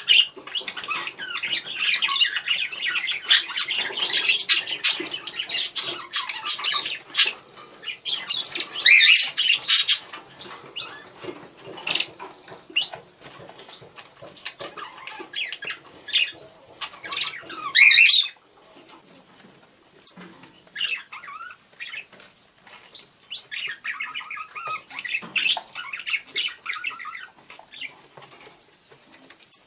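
Budgerigars calling to each other with fast chirps and warbling chatter. The chatter is dense for the first ten seconds or so, then thins to scattered calls, with a short livelier spell a few seconds before the end.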